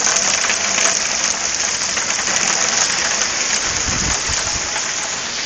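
Heavy downpour: a steady, dense hiss of hard rain pouring onto the street and yard, with a brief low rumble about four seconds in.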